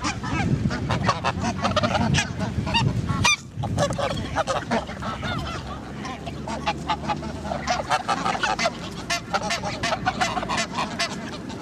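A flock of geese calling: many overlapping honks, one after another, with a brief gap about three seconds in.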